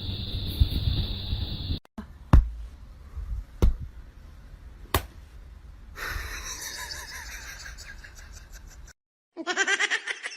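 Three sharp knocks a little over a second apart, then near the end a loud wavering animal call.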